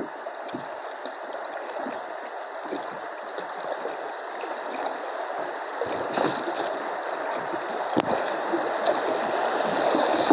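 Rushing water of small river rapids around a kayak, a steady hiss that grows louder toward the end, with one sharp knock about eight seconds in.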